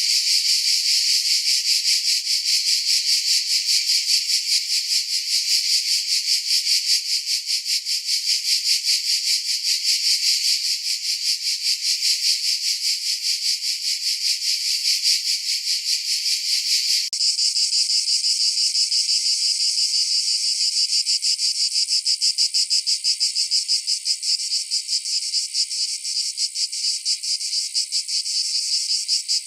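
Cicadas calling: a loud, high, fast-pulsing buzz. About 17 seconds in it changes abruptly to a slightly different buzz.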